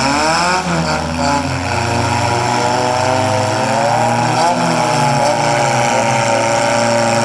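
Engines of four-cylinder demolition derby cars revving, several at once, their pitch rising and falling.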